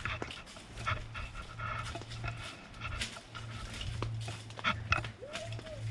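An animal panting in quick repeated breaths, with one short rising-and-falling whine near the end.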